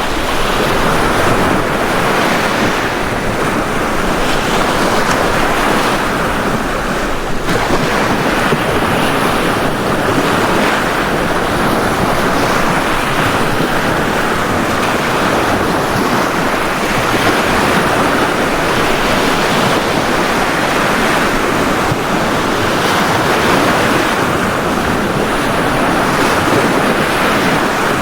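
Ocean waves washing onto a beach: a continuous rush of surf that swells and eases gently.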